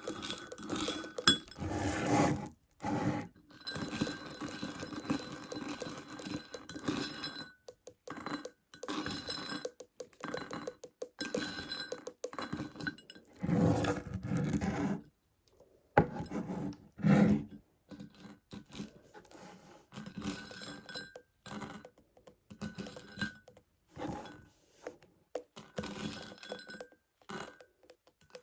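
A plastic bottle of Meiji Choco Baby chocolate pellets being tapped and handled in bursts with short pauses, the small chocolates clicking and rattling against the plastic.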